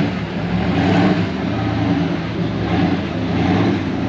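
Truck engine revving hard during a burnout, its pitch wavering up and down over a dense rushing noise.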